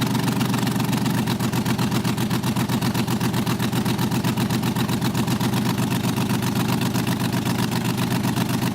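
Vintage race car engine running steadily at a low, even speed with a rapid, regular pulse.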